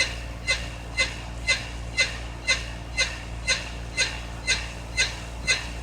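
An unidentified signal coming through a radio's speaker: short, evenly spaced beeps about twice a second, each with a few high tones, over a steady low hum.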